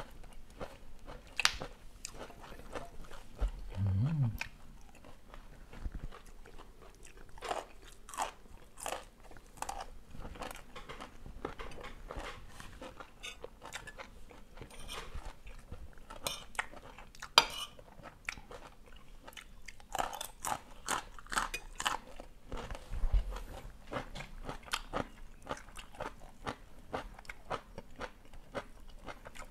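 A person chewing and crunching mouthfuls of duck larb eaten with fresh vegetables: irregular crisp crunches and bites. A short low hum of voice about four seconds in.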